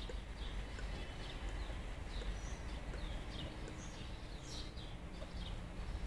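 Small birds chirping: short, high chirps that drop in pitch, about two a second, over a low steady rumble.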